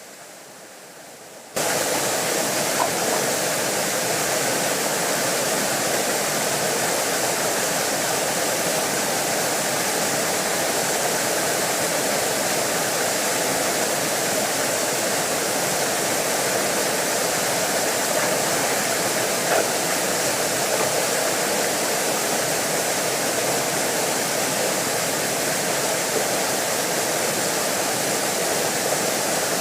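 Waterfall pouring, a steady loud rush of water that starts abruptly about a second and a half in.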